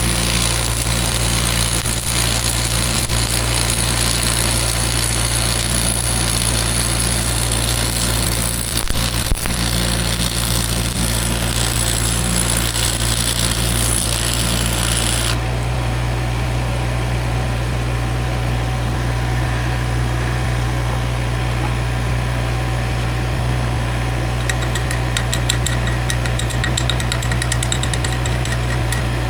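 Arc welding on a cracked boom weld: a steady frying hiss and crackle over an engine running steadily, the hiss cutting off abruptly about halfway through. Short bursts of crackle come near the end.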